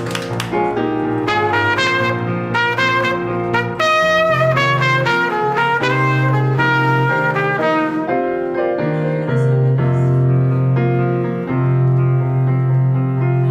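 Salsa music: trumpets and other brass play short phrases over piano and a held bass line.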